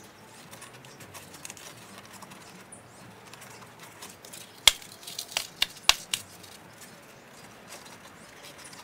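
A quick run of about six sharp clicks or taps about five seconds in, over a faint steady hiss.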